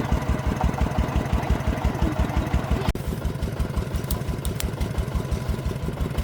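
Single-cylinder diesel engine of a công nông farm vehicle running at a steady, even thumping rhythm of about eight beats a second, with a brief break about three seconds in.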